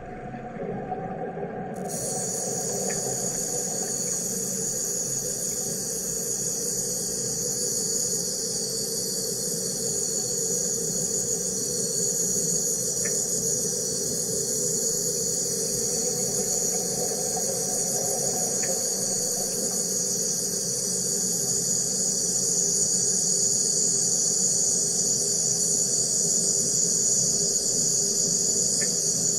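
Wire EDM machine running: a high, steady hissing buzz starts abruptly about two seconds in and holds over a lower machine hum, with a few faint ticks.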